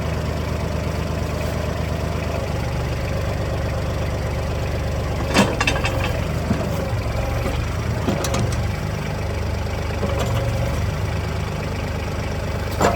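Kubota tractor's diesel engine idling steadily, with three sharp knocks: about five seconds in, about eight seconds in, and near the end.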